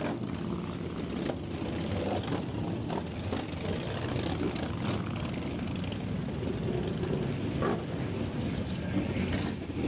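Steady low rumble of motorcycle engines running, with a few short knocks.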